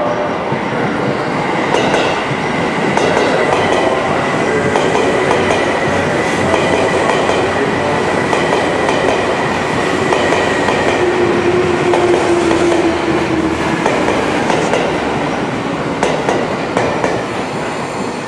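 Seibu 2000 series electric train, two coupled sets, running into the station: a steady rumble of wheels on rail, with a thin high whine through the first half and a cluster of clickety-clack over the rail joints near the end.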